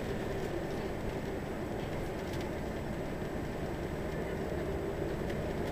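Scania L94UB city bus under way: a steady low engine and road rumble with light rattling.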